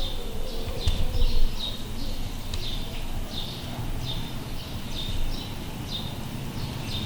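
A small bird chirping over and over, short falling chirps about twice a second, with low rumbling noise underneath.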